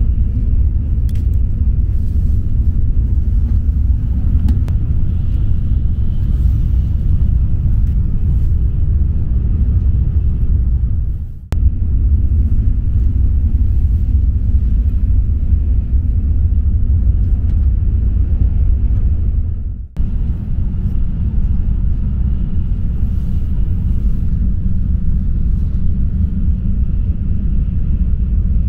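Steady low rumble of a Tokaido Shinkansen bullet train running, heard from inside the passenger cabin. It cuts out for a moment twice, about 11 and 20 seconds in.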